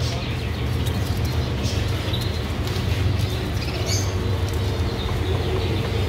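Caged small birds chirping, with short high chirps about a second and a half in and again around four seconds, over a steady low hum.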